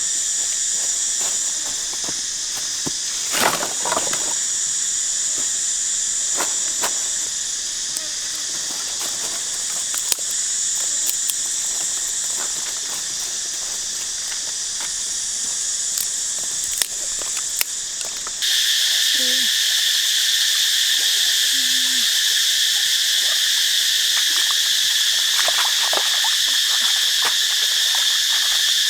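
Steady chorus of forest insects such as cicadas and crickets, with a few light clicks and taps. About eighteen seconds in, it switches abruptly to a louder, higher chorus.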